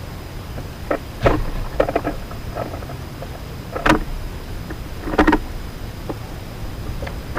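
Outdoor feeder ambience: a steady low rumble, likely wind on the microphone, with four or five short, sharp clicks or chirps spaced a second or more apart, the loudest about four seconds in.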